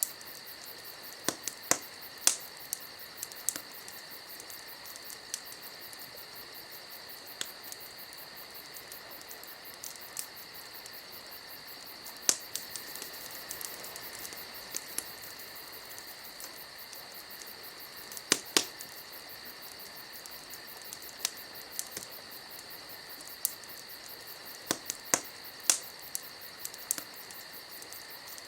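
Wood fire crackling, with irregular sharp pops scattered through, the loudest a few about six seconds in and around eighteen seconds in, over a steady high-pitched background tone.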